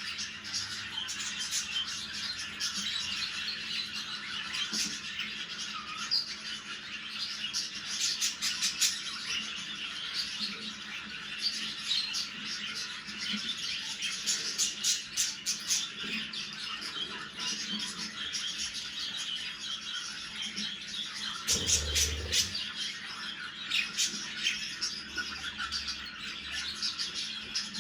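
Budgerigars chirping, warbling and squawking in a rapid, continuous chatter, with a brief low thud about three-quarters of the way through.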